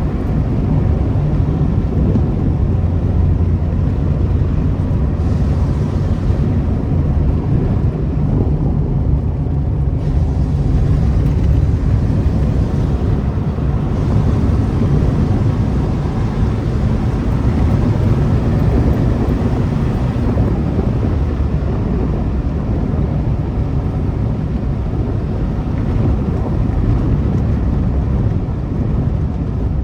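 A Renault car's loud exhaust running steadily with a deep, low sound.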